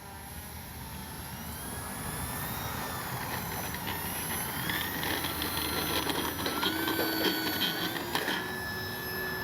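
Electric brushless motor and propeller of an FMS 1500 mm Cessna 182 RC plane on its takeoff run and climb-out. The whine rises in pitch over the first few seconds as the throttle comes up, then holds fairly steady, growing louder.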